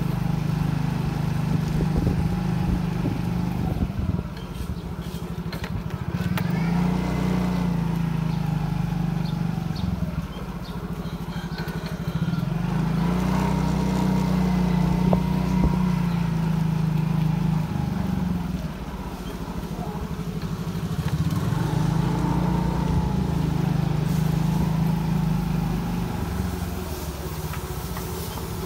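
Motorcycle engine running while being ridden. Its note drops off and picks up again several times as the throttle is eased and opened.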